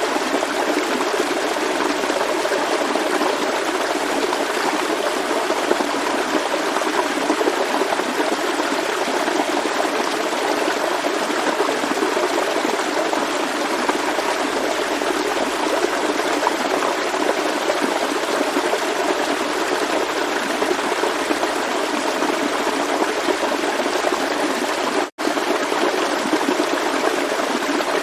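Forest stream flowing steadily, an even rush of running water. It cuts out for an instant about 25 seconds in.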